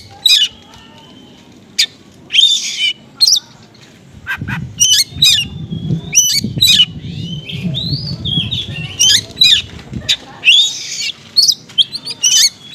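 Oriental magpie-robin singing in short, fast bursts of chirps, harsh squawks and whistled notes, mixing in calls copied from small birds. A low hum runs under the song for several seconds in the middle.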